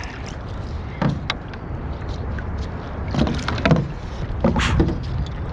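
Kayak paddle strokes splashing in the water, several irregular strokes over a steady low rumble.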